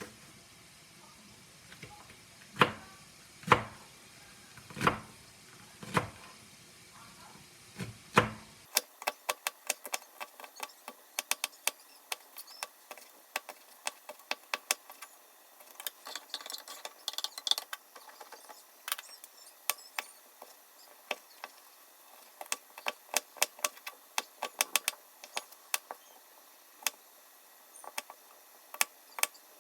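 Kitchen handling sounds: a few separate knocks, then many quick, irregular light clicks and taps of utensils and dishes.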